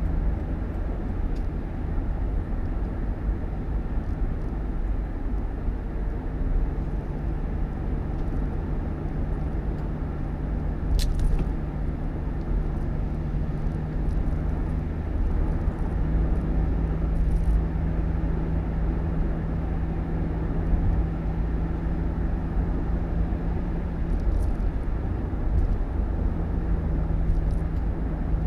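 Steady low rumble of a motor vehicle running, with a constant low engine drone, and one sharp click about eleven seconds in.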